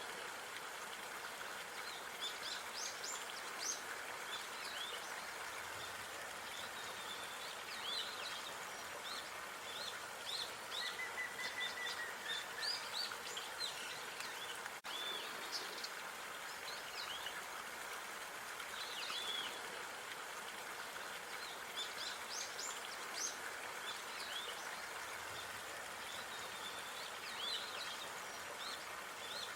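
Outdoor park ambience: small birds chirping and calling with many short, high chirps throughout, over a steady background hiss. A brief dropout comes about halfway through.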